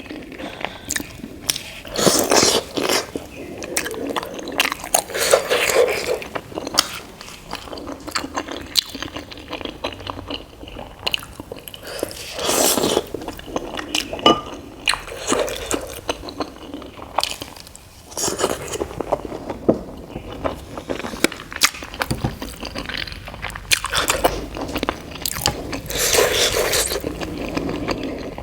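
Close-miked eating sounds: chewing and biting mouthfuls of idli dipped in sambar with coconut chutney. Wet mouth sounds are broken by frequent sharp clicks and occasional scrapes.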